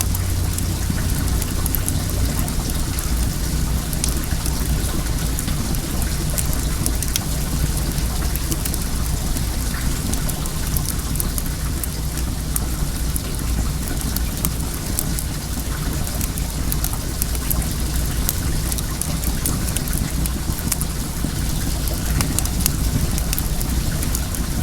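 Wood bonfire crackling with many small sharp pops, over the steady rush of flowing well water.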